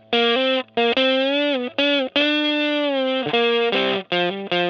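Distorted electric guitar playing a lead solo line with the fingers instead of a pick, giving a warm, round tone with a soft attack. It is a string of sustained single notes with bends and vibrato.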